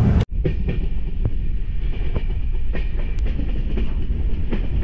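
Passenger train running on the rails, heard from a coach doorway: a steady low rumble with scattered clicks of the wheels over the track.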